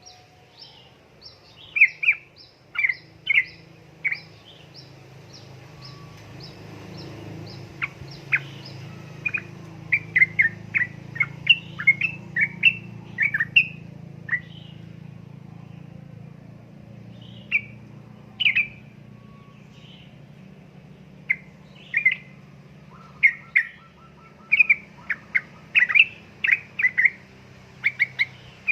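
Yellow-vented bulbul (trucukan) calling in quick runs of short, sharp chirps, grouped in bursts, with gaps around 15–17 s and 19–21 s. A fast, even series of high ticks runs through roughly the first half, over a low steady hum.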